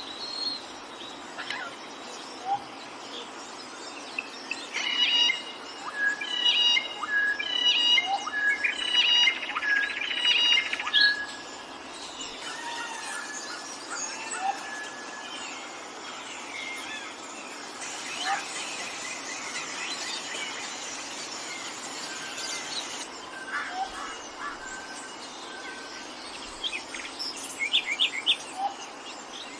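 Several wild birds chirping and singing over a steady hiss of forest ambience. One bird repeats a short chirped phrase over and over for several seconds, and more calls come in near the end.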